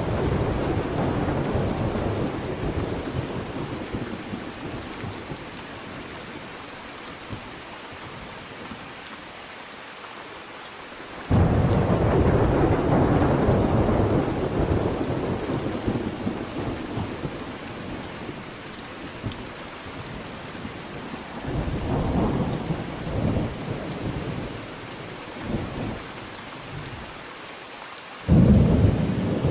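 Steady rain with thunder: a rumble dies away over the first few seconds, a loud clap breaks in suddenly about eleven seconds in and rolls on for several seconds, a softer rumble follows near twenty-two seconds, and another sharp clap comes near the end.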